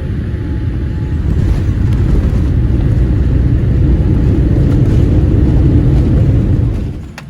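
Loud, steady low rumble of a Boeing 787-8 heard from inside the cabin, growing a little over the first couple of seconds and then holding steady before dropping away suddenly near the end.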